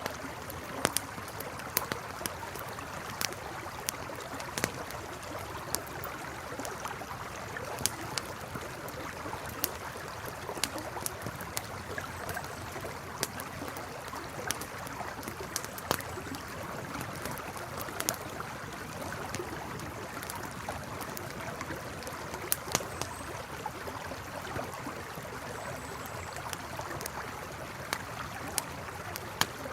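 A river flowing steadily, with a campfire crackling over it in sharp, irregular pops, several every few seconds.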